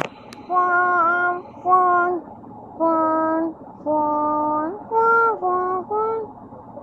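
A high voice singing a simple tune: a run of separate held notes, each about half a second long, stepping up and down in pitch with short gaps between them.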